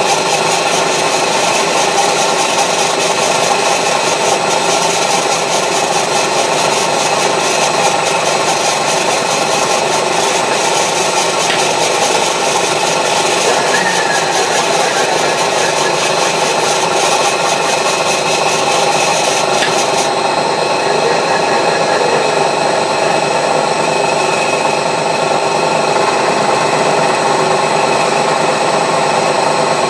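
Milling machine running with a 16 mm carbide cutter taking a light 20-thou skim across a steel wood-chipper blade: a steady whine with a dense, scratchy cutting noise. The high hiss of the cut stops suddenly about twenty seconds in, and the machine runs on.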